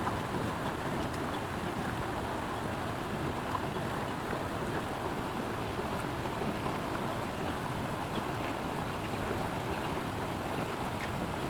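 Steady rushing noise of water, even throughout, with a few faint ticks.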